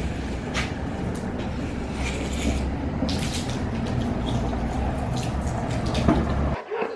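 Water from a garden hose spraying and splashing steadily over a low hum, cut off abruptly near the end.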